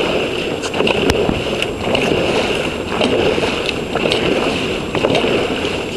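Dragon boat crew paddling in unison: water rushing and splashing in a rhythm of about one stroke a second, with a few sharp knocks.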